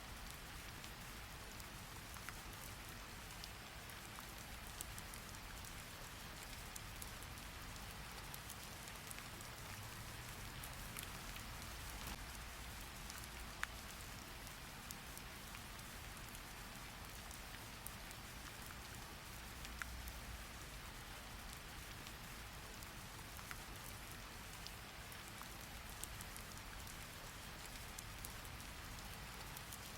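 Steady rainfall hiss, with scattered single sharp ticks now and then.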